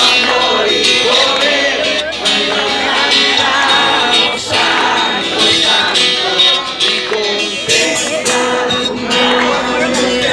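Voices singing a song with plucked guitar accompaniment.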